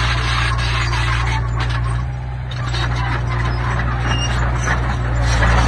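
Heavy diesel earthmoving machine running steadily, with rattling and clattering over the engine hum.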